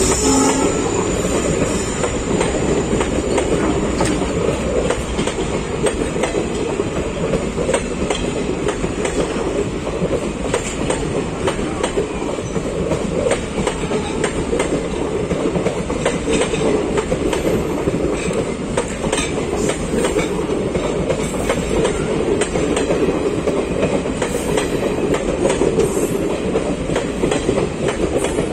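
Passenger train coaches rolling past close by, a steady rumble of wheels on rail with a running clatter of clacks as the wheels cross the rail joints.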